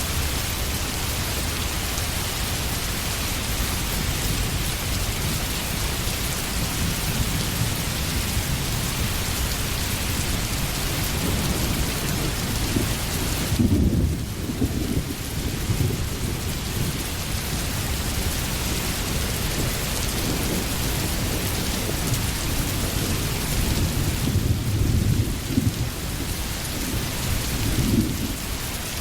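Steady rain with low rumbles of thunder, which swell about halfway through and again near the end.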